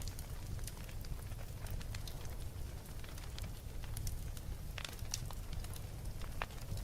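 Wood fire in a fireplace, crackling with frequent irregular pops and snaps over a low steady rumble of the flames.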